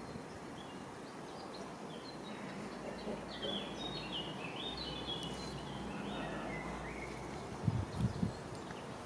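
A small songbird sings a quick run of short, falling chirps from about three to six seconds in, over a steady outdoor background hiss. A few soft low thumps come near the end.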